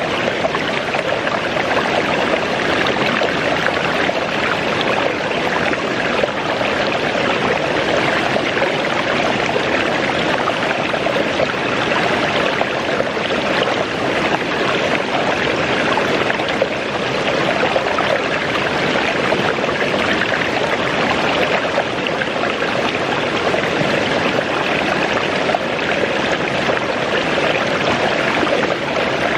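Waterfall rushing, a steady roar of falling and splashing water.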